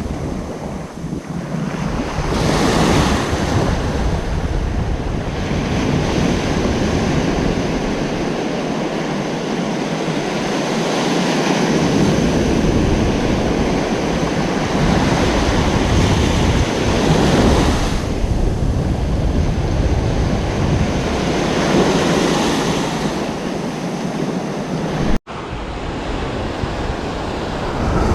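Ocean waves breaking and washing on a beach, surging louder several times, with wind rumbling on the microphone. Near the end the sound cuts out for an instant.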